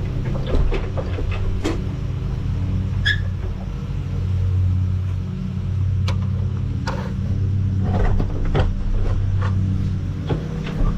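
Tractor engine running steadily at idle, with scattered sharp metallic clinks and knocks over it.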